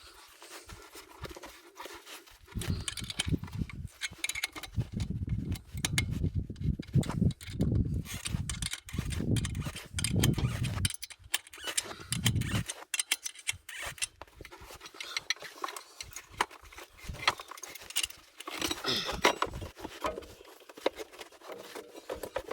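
Hand tools and metal parts being handled while a cover is taken off a side-by-side, mostly irregular clicks and clatter, with uneven low rumbling stretches in the first half.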